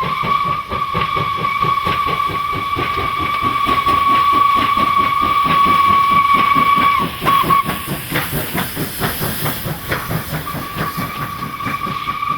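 South African Railways Class 15F steam locomotive working hard, its exhaust beating several times a second, while its steam whistle blows one long steady note. The whistle falters and stops about seven seconds in, then sounds again a few seconds before the end.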